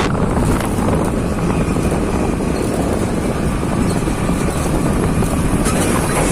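Steady wind rush on the microphone over the rumble of a motorcycle riding at highway speed.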